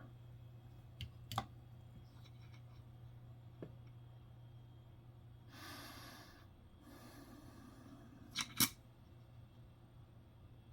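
Faint clicks of nickels being handled, a couple of light taps about a second in and a sharper double click near the end, with soft rustling in the middle over a low steady hum.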